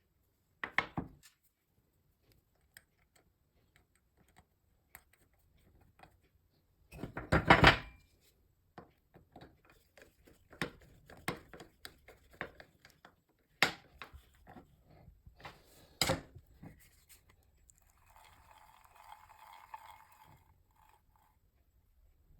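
Workshop handling of a manual hand drill's parts: scattered clicks and knocks, a louder clatter of impacts about seven seconds in, sharp knocks later on, and about two seconds of rattling noise near the end.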